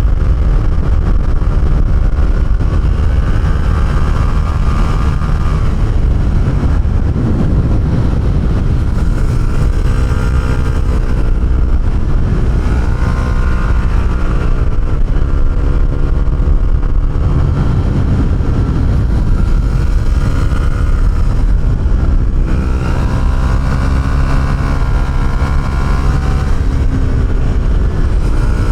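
Honda CB125R single-cylinder four-stroke engine through an aftermarket Arrow exhaust, heard from the rider's seat under way. The revs climb and drop back several times as the bike accelerates, shifts and eases off.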